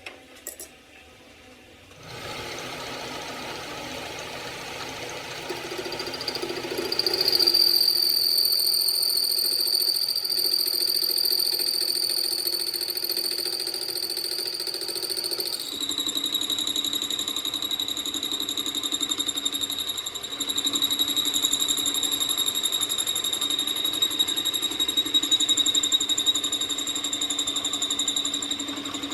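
A machine running with a steady high whine over a noisy hum. It starts a couple of seconds in, grows louder, and shifts to a lower whine about halfway through.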